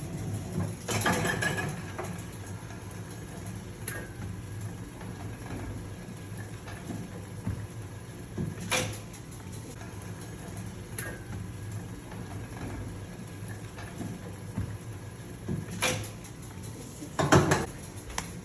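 Sheets of a print portfolio being handled and turned: about six scattered short knocks and rustles over a steady low hum, the loudest near the end.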